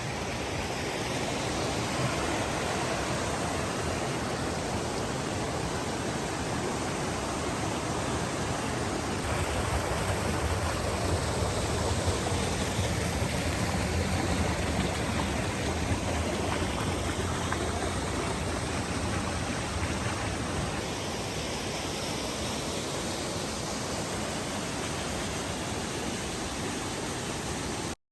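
Steady rush of falling water from a forest waterfall, an even noise with no pauses that cuts off suddenly near the end.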